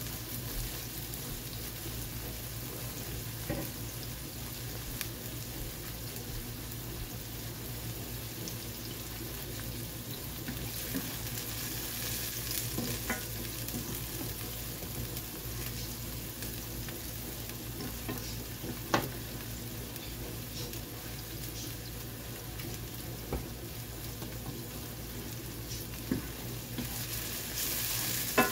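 Diced bell pepper and minced garlic sizzling steadily in olive oil in a nonstick frying pan, with a few light clicks and scrapes from a spatula stirring them. The sizzle gets louder near the end as the pan is stirred.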